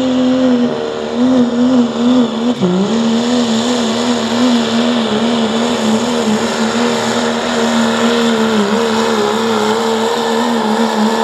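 1997 Dodge Ram diesel pulling truck at full throttle under load, its engine pitch wavering up and down continuously as it pulls the sled, with a brief dip about two and a half seconds in.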